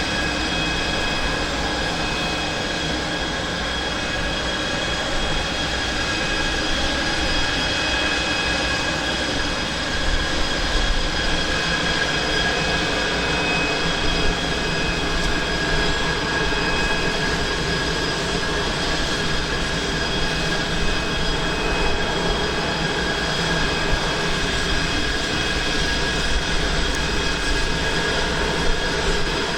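Boeing 747-400 freighter's jet engines running steadily: a loud, even rush with a constant high whine.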